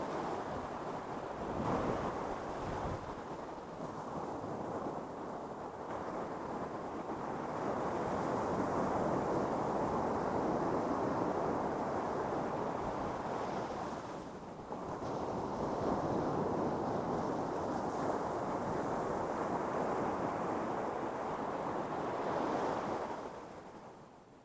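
Ocean surf washing onto a sandy beach: a steady rush of breaking waves, swelling and easing, with a short lull about halfway through and dying away near the end.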